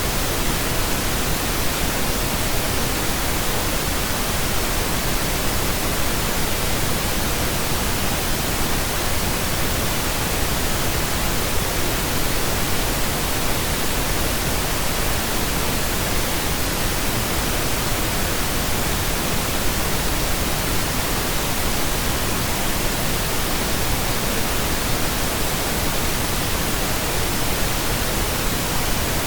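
Steady synthetic pink noise: an even, unchanging hiss with no tones or breaks.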